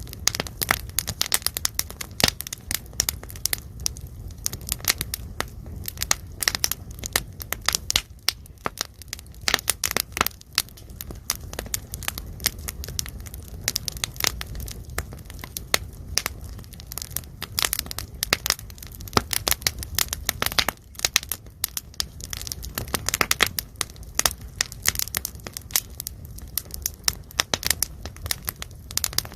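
Pork belly sizzling and spattering on a griddle over a pine-wood fire: dense, irregular crackles and pops of hot fat, like rain, over a steady low rumble from the fire.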